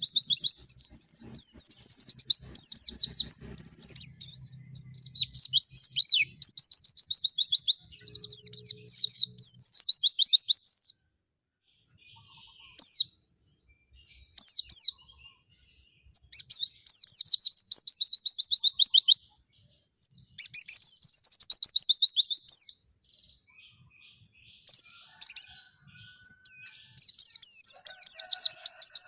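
White-eye (pleci) singing vigorously in long, rapid, high-pitched trilling phrases of a few seconds each. Around the middle the song breaks off into a few scattered notes before the trills resume.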